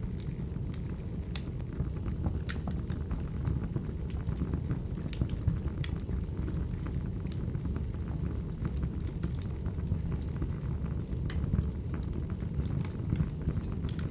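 Wood fire burning steadily, a low rumble of flames with irregular sharp crackles and pops of the burning logs.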